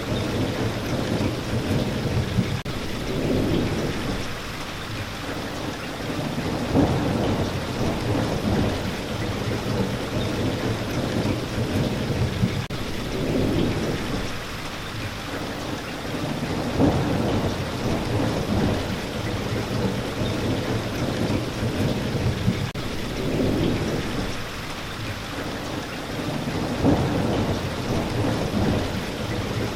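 Steady rain with low rumbles of thunder that swell and fade every few seconds, the same pattern coming round about every ten seconds.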